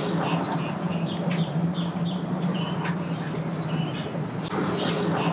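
Birds calling repeatedly in short chirps, several a second, over a steady low hum.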